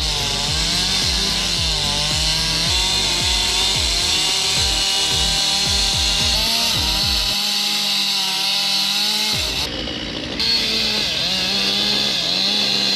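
Chainsaw running under load while cutting through oak, its engine pitch wavering up and down as the cut goes on, with a short break about ten seconds in.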